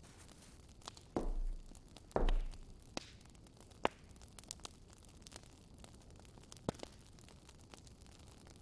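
Small objects handled by hand: scattered light clicks and taps, with two short rustling thumps about a second and two seconds in.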